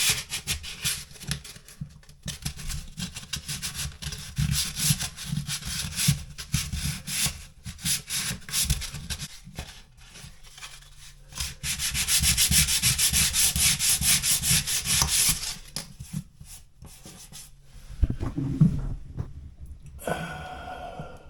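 120-grit sandpaper scraped back and forth over a dried spackle patch on drywall in quick scratchy strokes, with a short pause near the middle and a steadier run of sanding after it.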